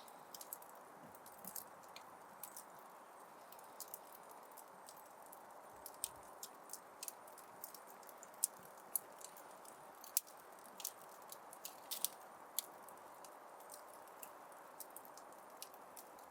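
Wood fire crackling in a fireplace: irregular sharp pops and snaps over a soft steady hiss, with a few louder pops around the middle.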